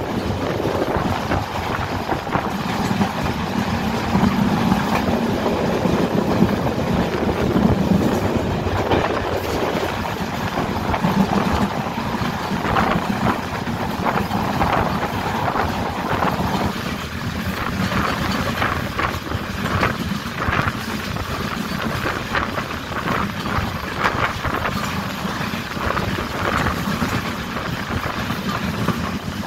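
Diesel passenger train running at speed: a steady low hum, with the clatter of wheels over the rails growing more prominent in the second half.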